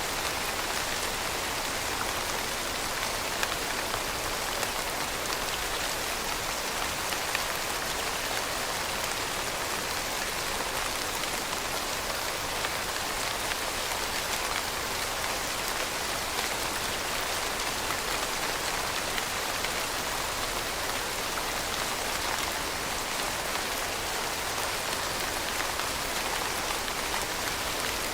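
Steady rain falling on a surface: an even hiss with many small drops pattering.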